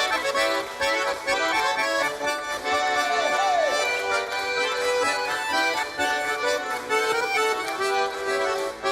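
Accordion playing the instrumental break between sung verses of a Russian folk song, a run of sustained, stepping chords and melody.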